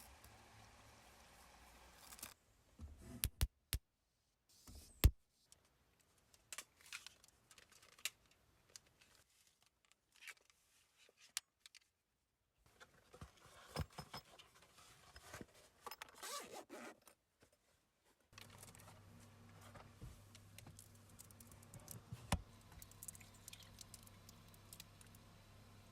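Intermittent handling noises: rustling and scraping with several sharp clicks, the loudest about five seconds in. A faint steady hum comes back about two-thirds of the way through.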